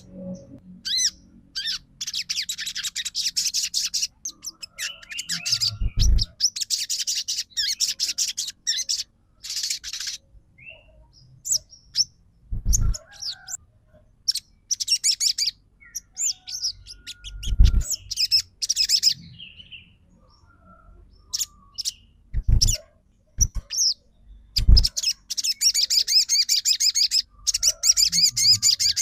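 Sogon songbird singing: long runs of rapid, high-pitched chattering trills broken by short pauses, played as a lure to provoke other sogon birds to sing. A few dull low thumps come in between the phrases.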